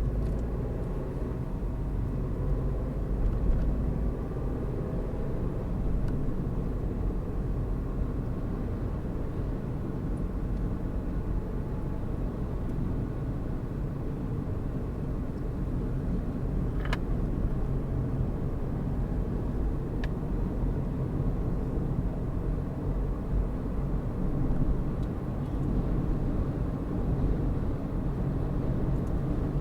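Car driving along a road: steady engine and tyre rumble, with a brief click about 17 seconds in and a fainter one about 20 seconds in.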